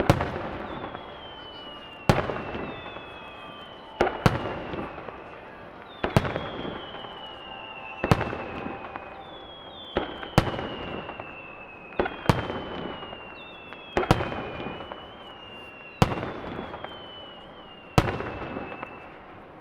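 Aerial firework shells bursting in a steady sequence, about one every two seconds, with two close together near the middle. Each is a sharp boom followed by crackling and a rolling echo, and after most bursts a whistle slowly falls in pitch.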